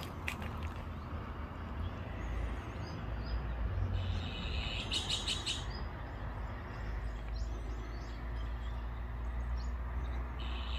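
Birds chirping: a quick run of chirps about five seconds in, then scattered fainter chirps, over a low steady rumble.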